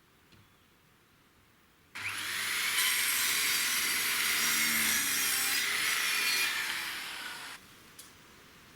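A saw cutting through wood. It starts abruptly about two seconds in, runs steadily for about five seconds, then tails off.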